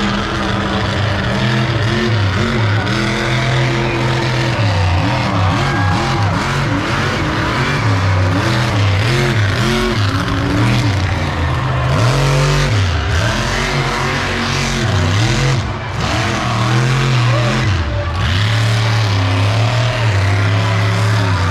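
Monster truck engine revving hard and repeatedly, its pitch climbing and dropping with each throttle blip.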